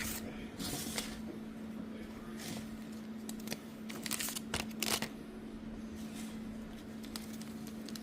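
Crinkling, rustling and a few light knocks from hands handling things while making breakfast, in irregular short bursts that cluster about four to five seconds in, over a steady low hum.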